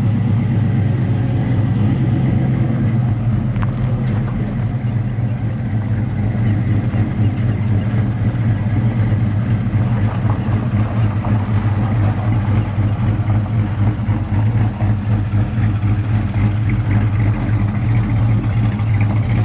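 A vehicle engine running steadily at an even speed, a constant low hum with no revving.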